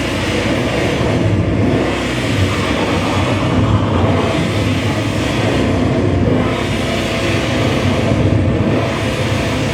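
Loud distorted electronic noise music: a dense wall of rumble and hiss with faint steady tones inside it, swelling and easing about every two and a half seconds.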